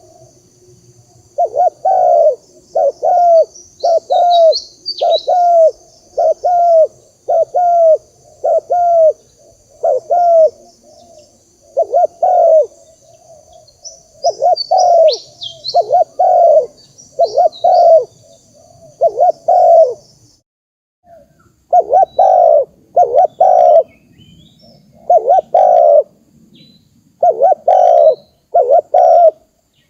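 Spotted dove cooing, the low notes repeated in a steady run about one a second, with a short break about two-thirds of the way through before the cooing starts again. Faint chirps from small birds come in twice.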